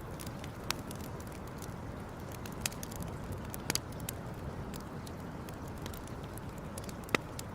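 Campfire burning with a steady low rush, broken by a few sharp crackling pops at irregular intervals, the loudest near the end.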